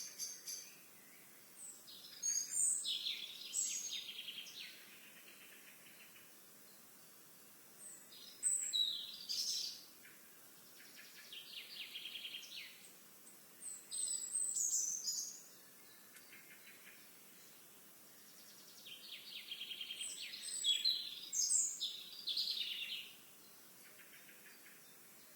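A songbird singing repeated phrases of high chirps and fast trills, with short pauses between them, over a faint steady outdoor hiss.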